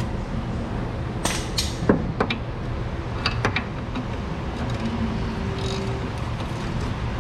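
Scattered sharp metal clicks and clinks from hand tools working a suspension bolt, clustered about one to three and a half seconds in, over a steady low hum.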